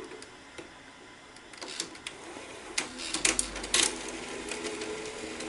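Sony SL-330 Betamax VCR mechanism clicking and clattering, a run of sharp mechanical clicks with a faint motor hum in the second half.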